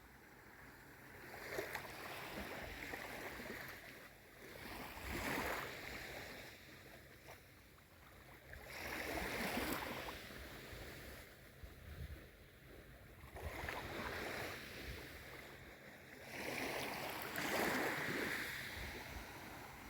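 Gentle waves of a calm sea washing in and drawing back, the noise swelling and fading about every four seconds.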